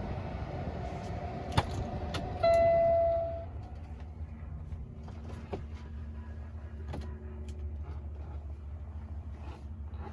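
Clicks of switches and controls in a truck cab, with one loud electronic beep lasting about a second, about two and a half seconds in, over a low steady hum.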